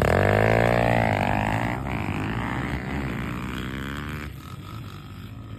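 Dirt bike engines revving hard together as they launch off the start line, the pitch climbing and falling through the gears, then fading as the bikes pull away.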